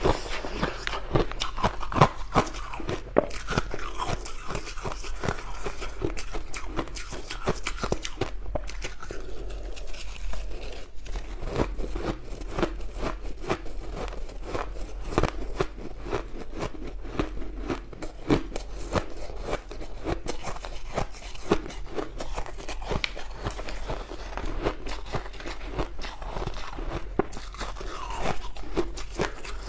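Close-up biting and chewing of crushed ice: a continuous, irregular crunching and crackling as the ice fragments break between the teeth.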